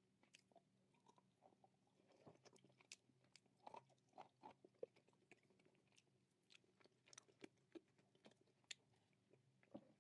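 Faint, close-up chewing and crunching of dry nakumatt clay: irregular small crunches and sticky clicks, coming thickest a couple of seconds in.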